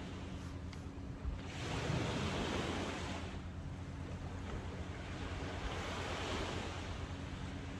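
Ocean surf washing onto the beach, swelling as waves break, about two seconds in and again around six seconds.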